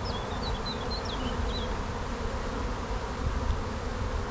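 Honey bees buzzing steadily in a mass around an open hive, the colony disturbed by the inspection.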